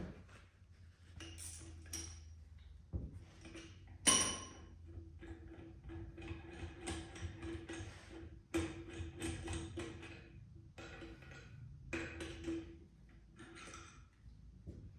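Metal tools and parts being handled, with scattered clicks and knocks and one ringing metallic ping about four seconds in.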